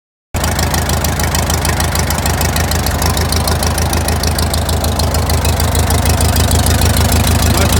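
1936 Case L tractor's four-cylinder engine running steadily with an even, rapid pulsing beat, cutting in suddenly just after the start and growing slightly louder in the second half.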